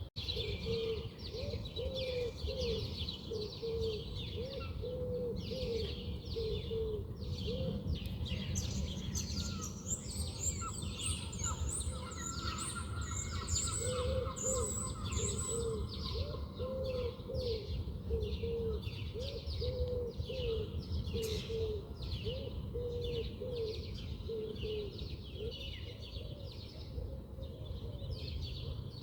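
Several wild birds calling at once: a steady stream of quick chirps, a high thin trill partway through, and two runs of short, low, repeated notes. A steady low rumble of outdoor background noise lies underneath.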